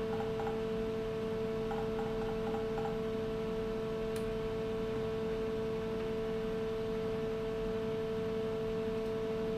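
A small milling machine running with a 3 mm cutter in the spindle: a steady, unchanging hum with one clear pitch.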